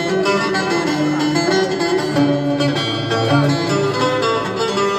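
Live music on plucked string instruments, a busy melody of many quick notes over a lower moving line.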